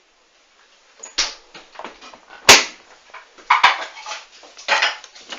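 A Hoover washing machine at the start of a duvet wash giving a string of irregular clicks and knocks, the loudest a sharp click about two and a half seconds in.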